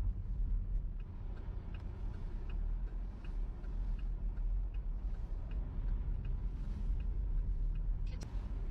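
Low, steady rumble of a car's engine and tyres heard from inside the cabin, with the turn-signal indicator ticking evenly about once every three-quarters of a second for most of the stretch. A single sharp click comes near the end.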